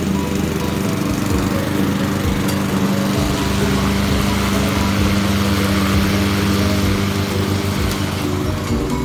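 Walk-behind gas lawn mower engine running steadily at a constant pitch while it is pushed across grass.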